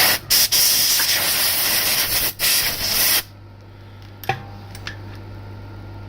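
Loud hissing spray in four bursts over about three seconds, with short breaks between them, then a single click. A steady low hum runs underneath.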